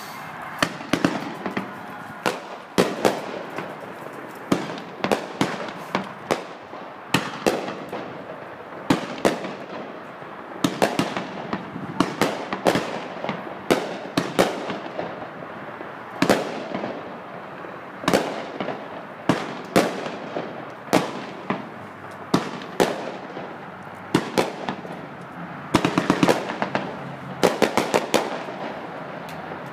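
Aerial fireworks bursting overhead: a long run of sharp bangs about once a second, with a noisy haze between them, crowding into a fast cluster of bangs near the end.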